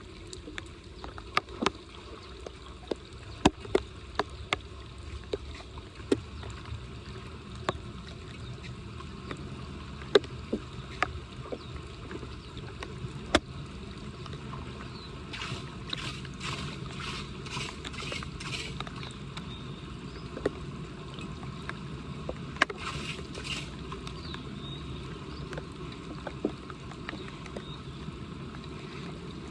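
Floodwater running and gurgling into a storm drain, with scattered sharp knocks and clunks. About halfway through comes a quick run of about seven noisy strokes, and two more shortly after.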